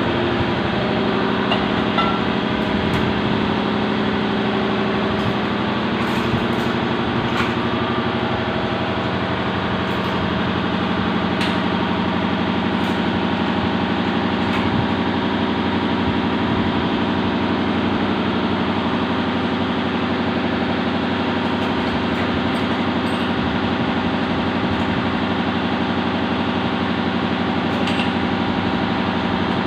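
A motor-driven machine running steadily with a hum, with a few faint clicks.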